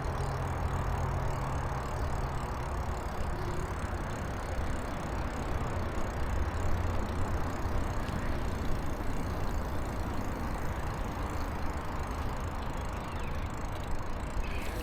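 Bicycle in motion: steady low wind rumble on the microphone with tyre and road noise underneath.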